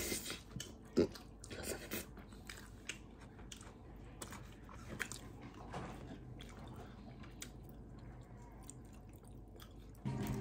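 Close-up eating sounds: someone chewing, with scattered small crunches and clicks.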